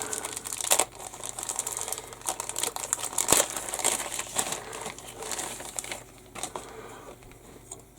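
Plastic bag of model-kit sprues crinkling and crackling as it is opened and handled, with scattered sharp crackles; it dies down over the last two seconds.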